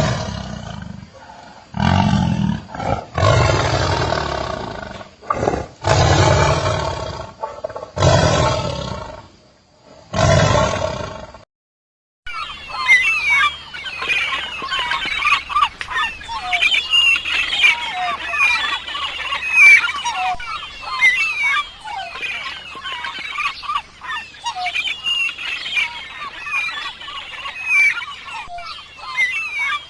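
A big cat roaring in about six deep, drawn-out bursts of roughly a second each. At about 12 s it cuts off, and a flock of birds calling with a dense stream of short chirps and squawks takes over for the rest.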